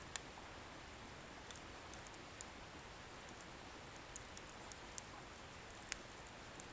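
Wood bonfire burning: a faint steady hiss with sparse, sharp crackles of firewood popping. The two sharpest pops come just after the start and near the end.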